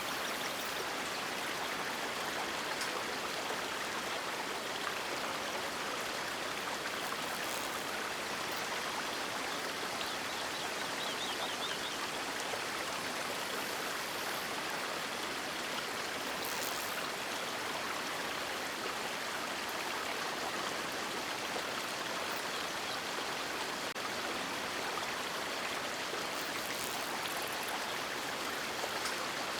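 River water rushing and splashing steadily, an even hiss with no breaks.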